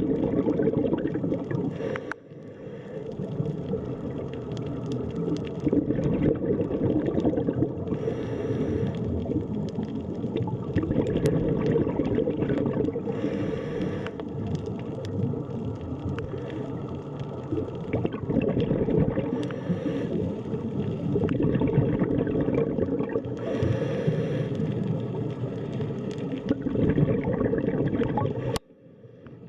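Underwater sea ambience: a dense, muffled churning of water with gurgling, dipping briefly about two seconds in and dropping away suddenly near the end.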